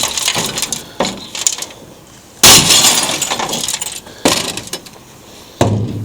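Sledgehammer blows smashing a big-screen television, glass and plastic breaking and clattering after each hit. Four blows, the loudest about two and a half seconds in.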